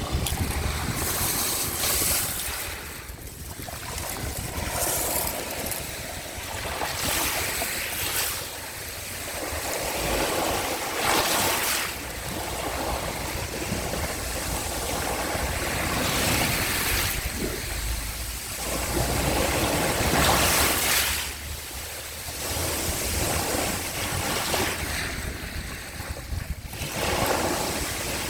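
Sea waves washing onto the shore, swelling and falling back every few seconds, with a low rumble of wind on the microphone.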